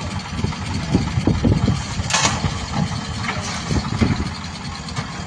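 Diesel engine of a backhoe loader or tractor running, with a brief noisy rush about two seconds in.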